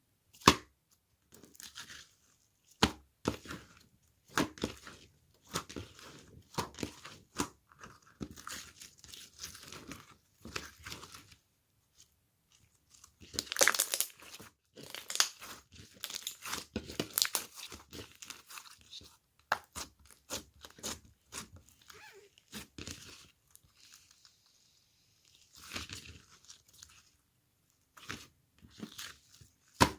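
Irregular close-up handling sounds: crinkling, tearing and crunching, broken by sharp taps and clicks, with a busier stretch about halfway through.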